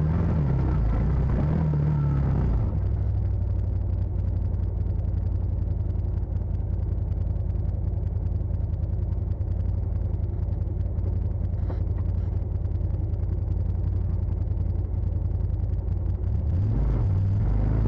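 Side-by-side UTV engine running steadily with a low rumble, the engine note shifting a couple of seconds in and again near the end.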